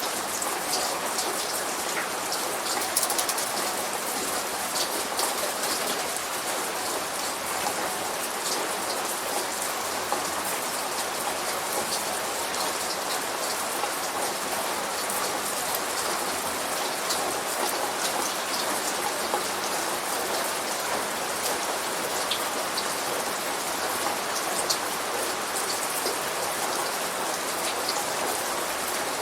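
Light rain falling steadily, with many close drops pattering on a surface.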